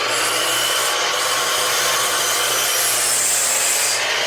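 Electric miter saw running at full speed, its blade cutting a 45-degree miter through a 2x4: a loud, steady whirring of blade and motor over the rasp of the cut.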